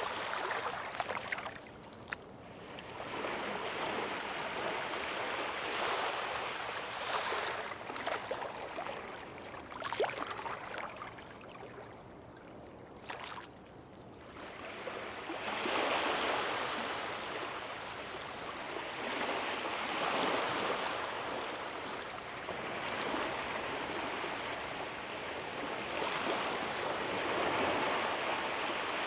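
Ocean surf washing onto the shore, swelling and fading in slow surges every few seconds, with a quieter lull about halfway through.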